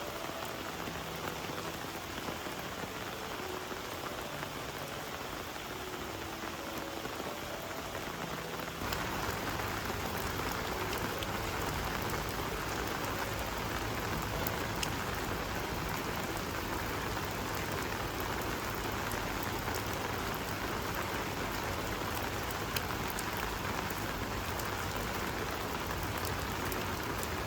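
Heavy rain falling, a steady hiss of drops on surfaces that grows louder and fuller about nine seconds in, then stays steady.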